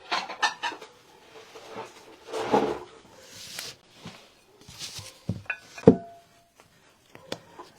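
Paintbrush being rubbed and dabbed to offload paint before dry brushing: several short scratchy rubbing passes and light taps, with one sharper knock about six seconds in.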